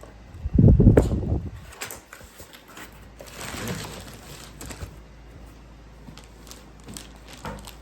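Toy microwave oven being handled. There is a heavy low bump about half a second in, then scattered light clicks and a short rustle.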